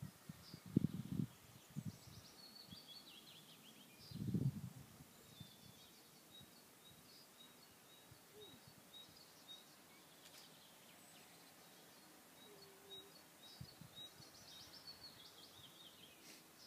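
Songbirds singing: descending trills about two seconds in and again near the end, and a steady series of high repeated notes in between. A few loud low rumbling thumps in the first five seconds.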